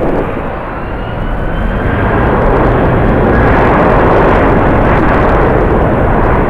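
Jet airliner's engines, a broad rush that grows louder toward the middle, with a faint high whine gliding above it. Strong wind buffets the microphone underneath.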